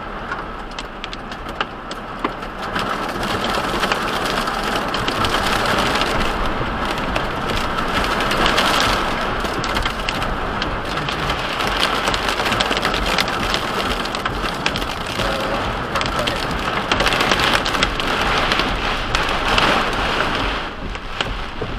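Steady rain falling hard, a continuous hiss dotted with the small ticks of drops striking a surface, building a little after the first few seconds.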